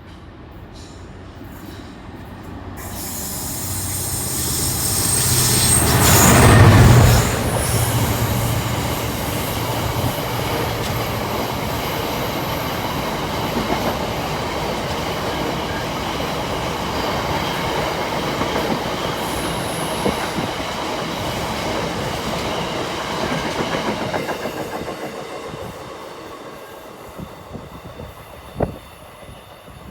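Class 66 diesel locomotive with its EMD two-stroke engine approaching and passing, loudest about six to seven seconds in. A long rake of loaded aggregate wagons follows, rolling past for nearly twenty seconds before fading out, with a single sharp click near the end.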